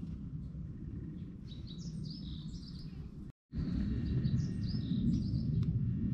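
Small birds chirping in quick high phrases, in two spells, over a steady low outdoor rumble; the sound cuts out for a moment about three and a half seconds in.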